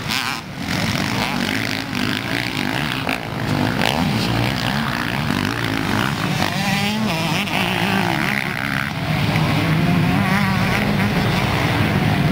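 Motocross dirt bike engines riding the track, their pitch rising and falling as the throttle opens and closes, over a low rumble that is probably wind on the microphone. Louder from about nine seconds in.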